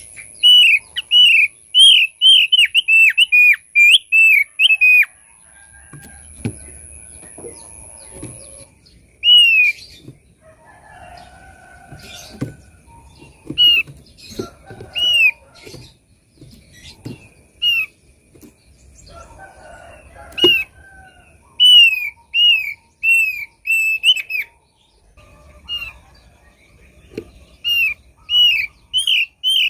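Thick-billed heleia (opior paruh tebal) calling: quick runs of sharp, down-slurred whistled notes, with single notes spaced out between the runs in the middle.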